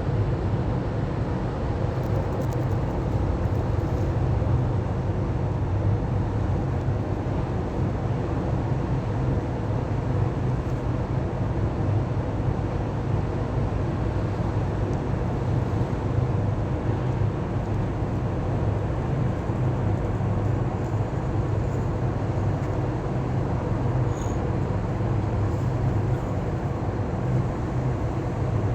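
Steady low rumble of a ship's engine, unchanging throughout, with an even hiss over it.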